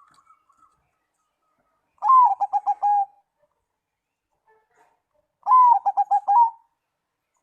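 Zebra dove (perkutut) cooing: two song phrases a few seconds apart, each an opening note that rises and falls, followed by a quick run of short, clipped coos.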